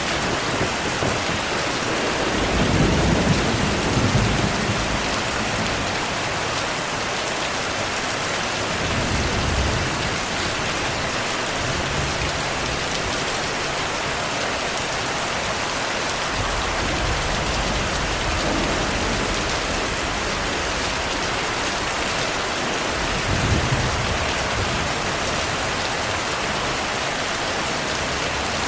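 Steady heavy rainfall with several low, rolling thunder rumbles. The loudest rumble comes about three seconds in, with weaker ones around ten seconds, mid-way and near the end.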